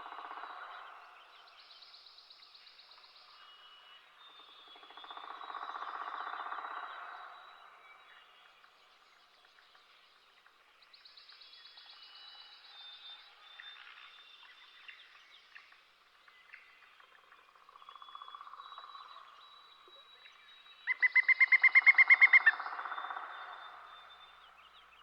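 Birds singing and calling: short chirps and several fast, buzzy trills, the loudest a rapid pulsed trill near the end.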